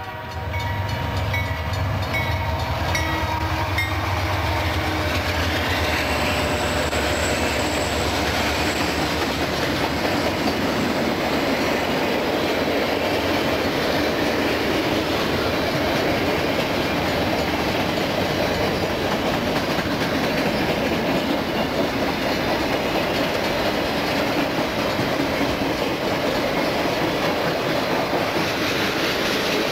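Freight train cars rolling past with a steady rumble and clatter of wheels on the rails. A low rumble is stronger for the first few seconds, then the rolling noise carries on evenly.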